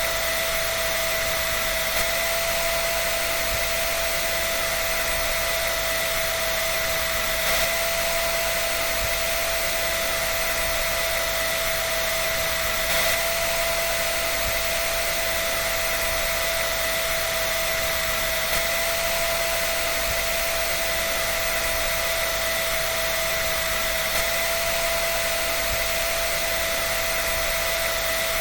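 Hair dryer running steadily: an even rush of blown air with a constant whine from its fan motor.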